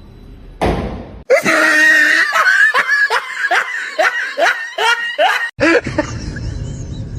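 A person laughing hard in a fast run of high-pitched bursts, several a second.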